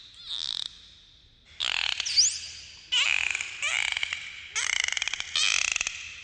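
Dolphins calling underwater: a quick series of whistles that glide up and down, with rapid click trains, about one call a second.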